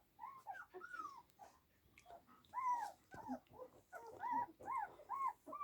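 Young puppies whimpering: a run of short, high squeaks, each rising and falling in pitch, about three a second, with a short pause about two seconds in.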